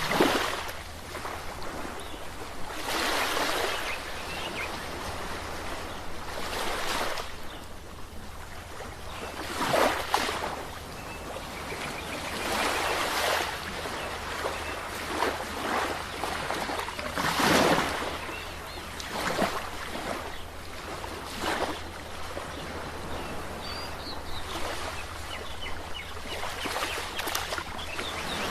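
Sea waves breaking and washing on a shore, each surge of surf swelling and fading every few seconds, over a steady low rumble.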